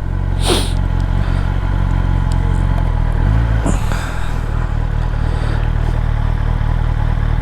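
2023 Kawasaki ZX10R's inline-four engine running steadily while riding, with wind noise over it; the engine note shifts briefly about halfway through.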